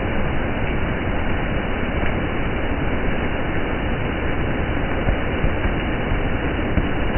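Steady rushing noise of water splashing on a wet street, with no separate splashes standing out.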